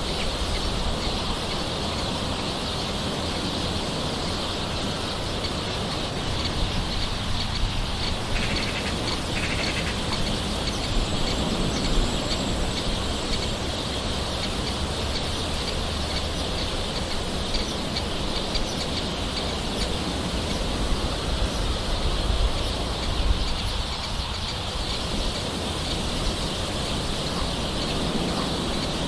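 Steady light rain, with birds calling now and then.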